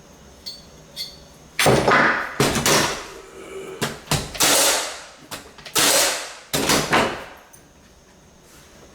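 A series of loud knocks and bangs, about six spread between two and seven seconds in, from hardwood floorboards being worked into place.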